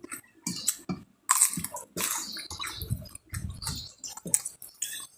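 Close, wet chewing and mouth smacking of someone eating a spicy seafood salad, with irregular squishy bites and crunches.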